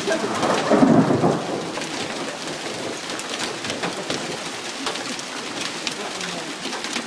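Heavy rain falling, with many drops spattering. About a second in, a low rumble swells and fades, typical of thunder.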